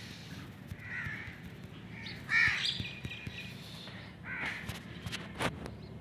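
A bird calling about four times in the background, the loudest call about two and a half seconds in.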